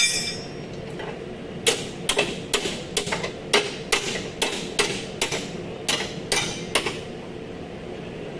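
Hammer striking metal, about a dozen quick blows at roughly two or three a second, in auto body repair of a damaged fender area. A brief ringing metallic clink comes just at the start.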